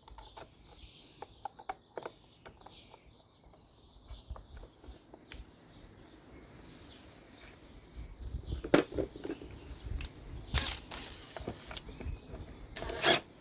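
Scattered light clicks and knocks of small engine parts being handled and fitted, as a cap with a seal is put back onto a small two-stroke engine. The knocks come more often and louder in the second half, with a sharper cluster near the end.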